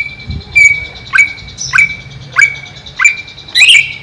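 Greater green leafbird (cucak ijo) calling: a sharp whistled note repeated about every 0.6 seconds, then a louder, busier phrase near the end.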